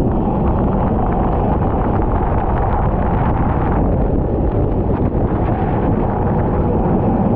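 Onboard sound of a racing kart on track: the kart's engine running steadily under heavy wind noise on the microphone, a dense low rumble.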